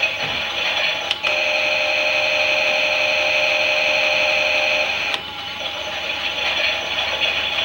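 Klein toy Miele washing machine running, its small battery motor turning the drum with a thin whir. About a second in, a click switches it to a steadier, higher whine, which ends with another click about five seconds in.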